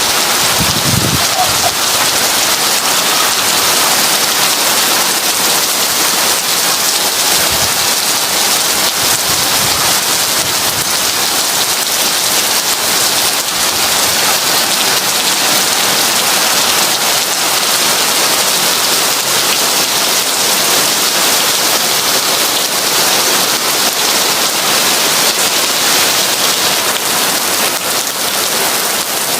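Heavy rain falling steadily in a dense, even hiss, with two brief low rumbles, one about a second in and another around seven seconds in.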